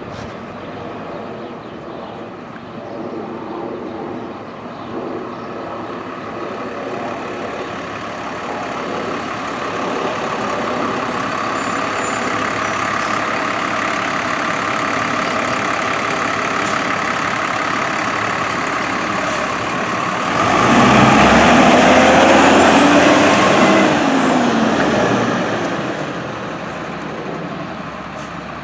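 Fire engine approaching, its engine getting steadily louder, then a loud honk of its horn lasting about four seconds as it passes, after which the sound fades.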